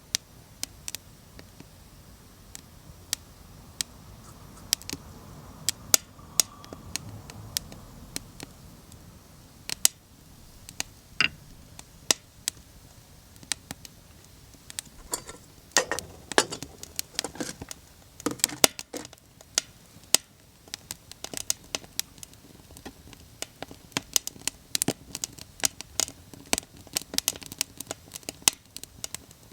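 Small wood fire crackling, with sharp irregular pops and snaps that come thicker about halfway through and again near the end.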